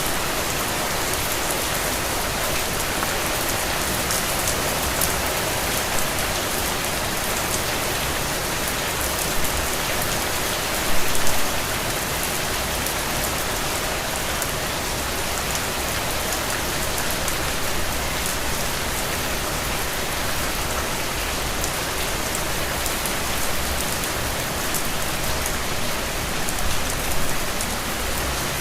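Steady rain falling, with the patter of individual drops on surfaces and a few louder drips about eleven seconds in.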